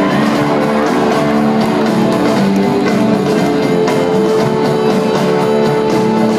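Rock band playing live, guitar-led, with held notes over a steady beat.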